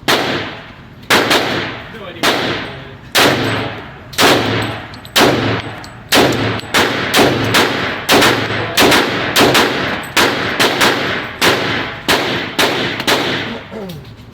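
A long string of pistol shots, about twenty in all: about one a second at first, quickening to about two a second from roughly six seconds in. Each shot trails off in echo.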